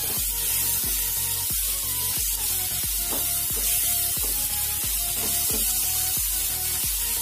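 Chopped onions, green chillies and fresh tomato sizzling as they fry in oil in a pan while being stirred with a spatula. Background music with a steady beat plays under it.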